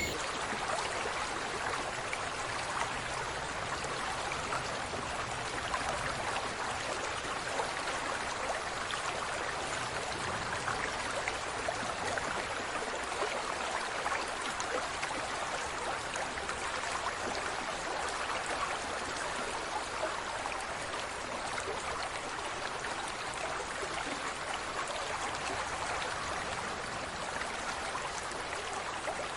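Steady rushing, trickling noise of running water, with no clear breaks.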